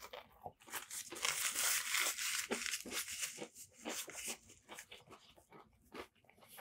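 Close-miked chewing of battered fried fish: crackly crunching for the first couple of seconds, then softer chewing with many small wet mouth clicks.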